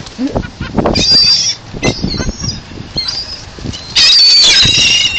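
Several birds giving high, squealing cries, a short bout about a second in and a louder run from about four seconds in, over wind rumbling on the microphone.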